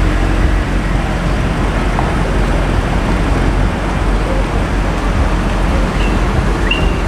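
Steady city street traffic noise, the engines and tyres of passing cars blending into a continuous rumble. A few short, rising high chirps sound near the end.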